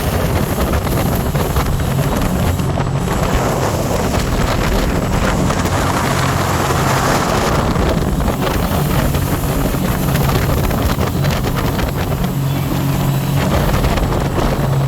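Scarab 165 ID jet boat's three-cylinder Rotax 1503 4-TEC engine running steadily at speed, with water rushing past and wind buffeting the microphone.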